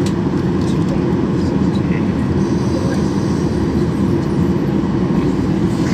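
Steady low rumble of cabin noise inside a Boeing 737-800 airliner.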